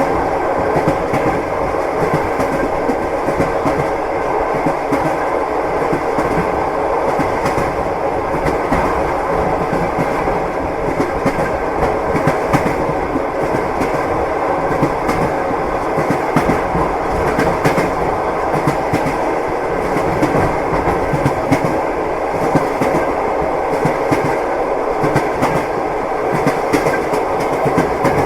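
Train wheels clacking over the rails, with the steady rumble and rattle of a moving railway carriage.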